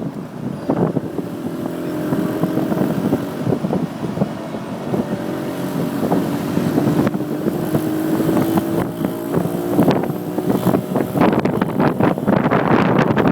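Motorcycle engine running under way, its pitch rising slowly as it gathers speed, with wind buffeting the microphone, heavier near the end.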